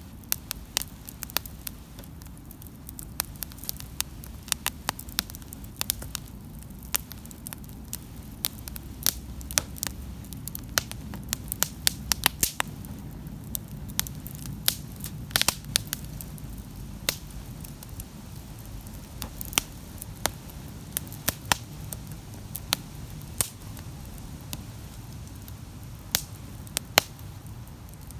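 Wood campfire burning, with sharp crackles and pops at irregular intervals over a low steady rumble of flame.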